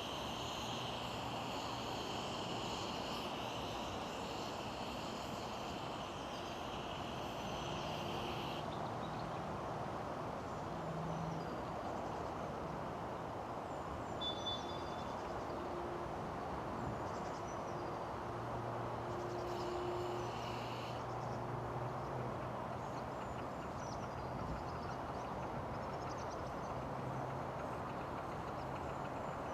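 7¼ inch gauge miniature steam train running along the track, a steady rumbling rush. A high steady hiss stops about eight seconds in.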